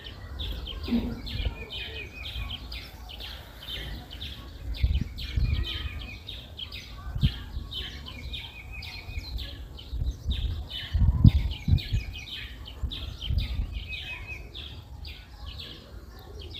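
Birds chirping over and over in quick, repeated calls, with a short trill coming back every few seconds. Low thumps and rustles come and go underneath, the loudest a cluster about eleven seconds in.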